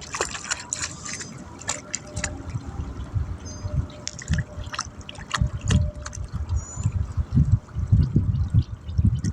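Water splashing and dripping at the water's edge, with many small irregular clicks and drips over uneven low thumps.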